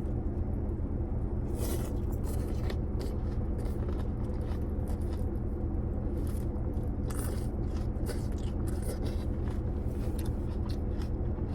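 Eating sounds: scattered small clicks and scrapes of a utensil in a takeout food container and chewing, over a steady low hum.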